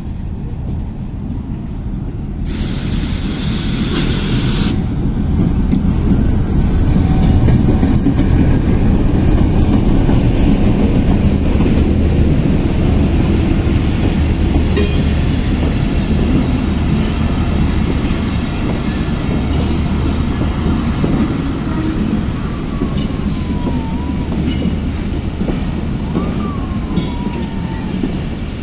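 Pakistan Railways express train passing at high speed: a heavy steady rumble with clicking wheels, building over the first several seconds and slowly easing. A brief rush of hiss about three seconds in, and short wheel squeals near the end.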